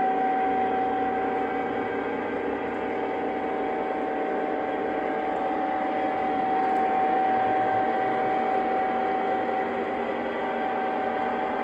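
Lionel O gauge Santa Fe E8 diesel model locomotive running on three-rail track: a steady humming run with one constant high tone, getting a little louder around the middle.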